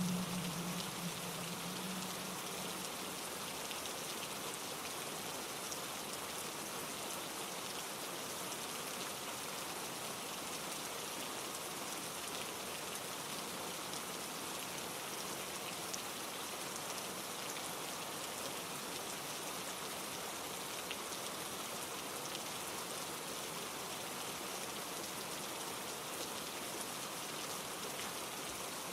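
Steady rain falling on leaves and the ground, an even hiss with scattered drop ticks. A low hum fades out in the first two seconds.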